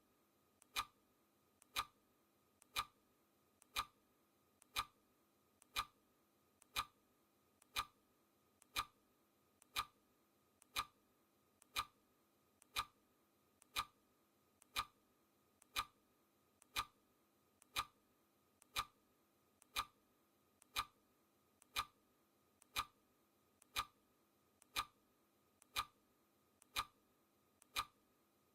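Clock ticking, one sharp tick each second, each tick led by a fainter click just before it.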